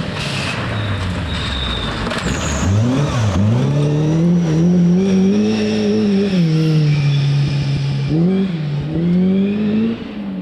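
Rally car engine driven hard, revs climbing and falling with throttle lifts and gear changes, with two sharp drops in pitch about three and eight seconds in.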